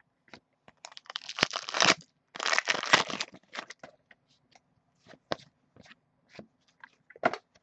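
Foil trading-card pack wrapper being torn open and crinkled: two crackling bursts of about a second each, followed by scattered light clicks and rustles as the cards are handled.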